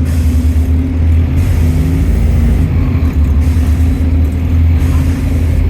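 A London double-deck bus's engine running, heard from inside the bus as a steady low drone, its pitch shifting slightly about two seconds in.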